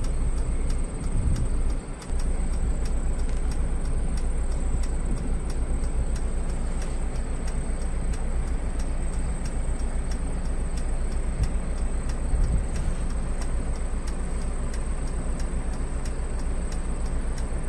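Car with its engine running, heard from inside the cabin as a steady low rumble, with faint regular ticks over it.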